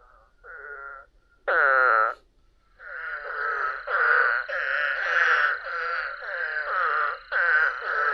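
Recorded frog calls: a few short pitched calls, a louder one about a second and a half in, then a fast run of repeated calls, about two a second, to the end.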